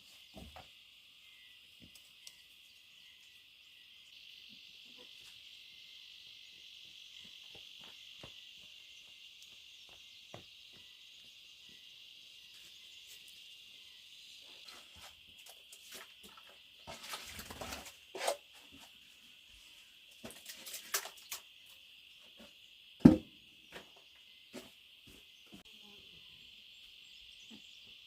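Steady high-pitched chorus of insects, with scattered short knocks and rustling handling noises in the second half and one sharp thump about three-quarters of the way through.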